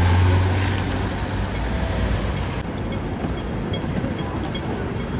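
Hong Kong pedestrian crossing's audible signal on red: evenly spaced short high beeps that show through from about halfway in. During the first half they are covered by loud traffic noise from a passing vehicle with a deep hum.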